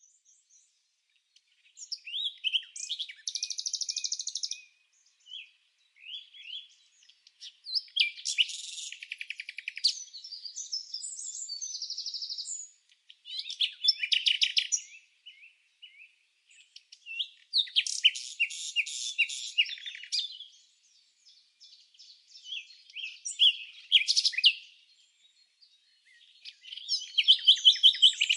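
Songbird singing in a string of high, quick phrases of chirps and trills, each a second or three long. Brief silent gaps separate the phrases.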